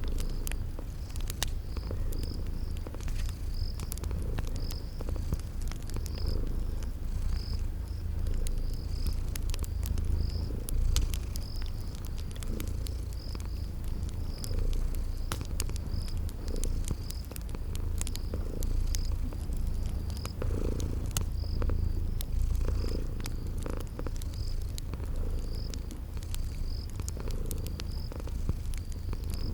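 Domestic cat purring steadily, with a cricket chirping in an even rhythm and the sharp crackles of a wood fire.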